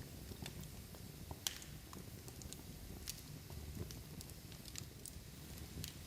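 Large log fire burning in a fireplace: a low rumble of flames with scattered crackles and pops, one sharper pop about a second and a half in.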